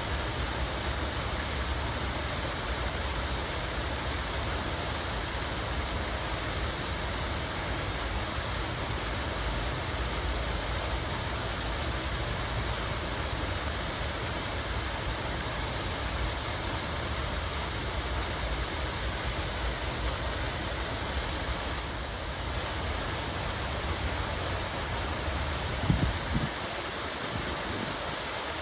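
Water flowing and splashing in a steady, even rush. A brief low thump comes near the end.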